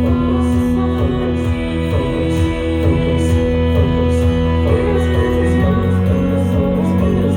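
A live band playing an instrumental passage, with guitars prominent. The low sustained note shifts down about two thirds of the way through.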